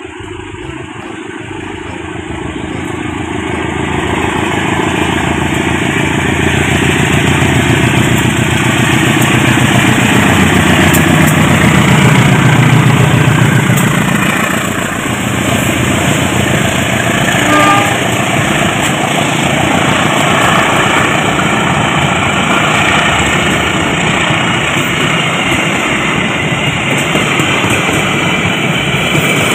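KAI diesel locomotive hauling a passenger train approaches and passes close by, its engine loudest about twelve seconds in, followed by the steady rumble of the economy-class coaches rolling past on the rails.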